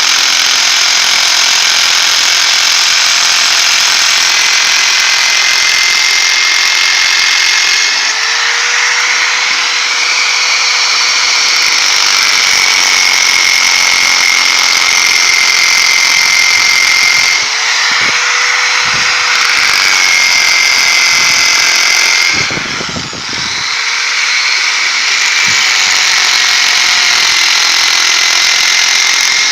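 Electric drill running continuously while held against the steel lattice reinforcement of a concrete-filled U-block beam, shaking the fresh concrete to drive out trapped air. The motor's whine dips in pitch briefly several times as the drill is slowed, with one short drop about three-quarters of the way through.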